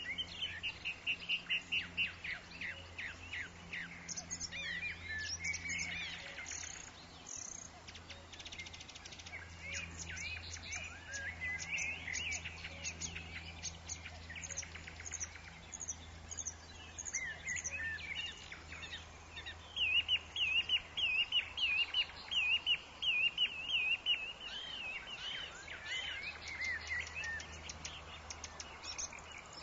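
Several forest birds calling and chirping over one another, opening with a fast trill and, in the last third, one bird repeating a run of quick warbled notes.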